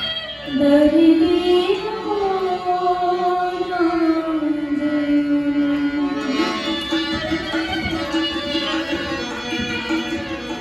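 Rajasthani folk music: a sarangi plays a long, sliding melody line, and a tabla joins in with a quick rhythm about six seconds in.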